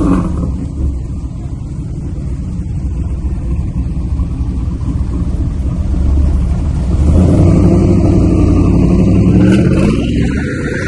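A car engine running with a steady low sound that grows louder about seven seconds in, then a brief rise in pitch near the end as it revs.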